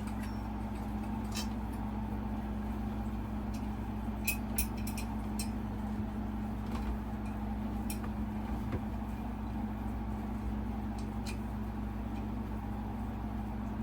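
Ceiling-fan mounting bracket and its hardware being handled and fitted: a few scattered sharp clicks and taps over a steady low hum.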